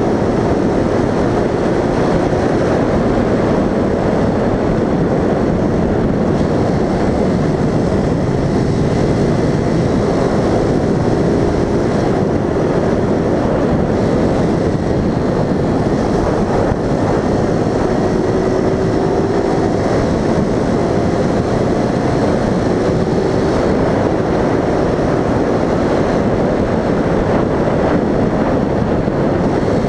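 Vehicle engine and road noise during a drive, a steady loud rumble with the engine's tone drifting gently up and down as the throttle changes through the bends.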